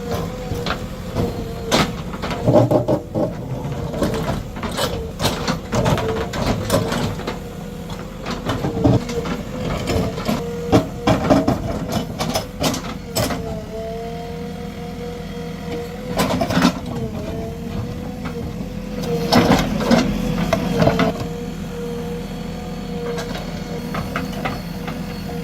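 JCB 3DX Plus backhoe loader at work: its diesel engine running with a steady, slightly wavering hum, under repeated sharp clanks and knocks of the bucket against hard stones, in heavier clusters near the start, in the middle and about three quarters through.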